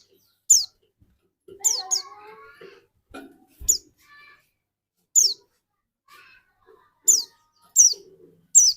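Pleci dakun (a white-eye) calling in a string of sharp, high chirps that each drop quickly in pitch. There are about eight of them, spaced unevenly from half a second to two seconds apart.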